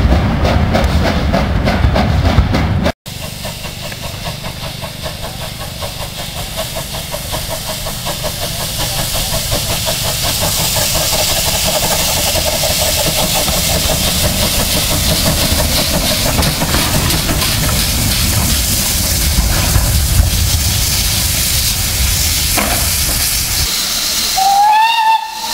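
Steam locomotive blowing off steam: a steady hiss that builds over many seconds, then a short whistle blast near the end that rises in pitch and holds. A louder, lower rumble fills the first three seconds and cuts off abruptly.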